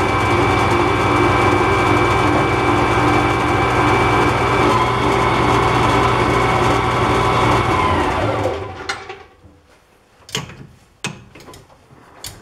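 Metal lathe running steadily, then switched off about seven seconds in and winding down to a stop. A few sharp clicks and knocks follow near the end.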